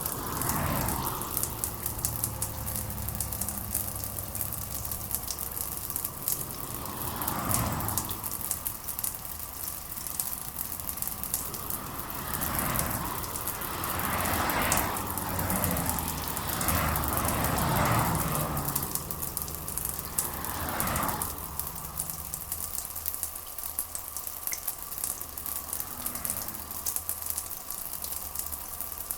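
Steady rain falling, an even hiss, with several slow swells of louder rushing sound that rise and fade.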